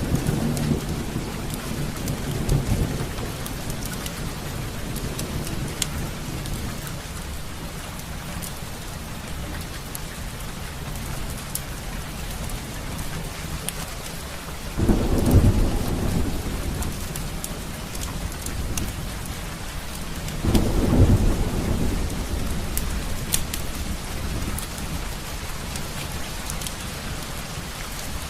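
Steady rain with thunder: a low rumble fading over the first few seconds, then two sudden rolls of thunder, about fifteen and twenty-one seconds in, each dying away over a few seconds. Scattered sharp ticks sound over the rain.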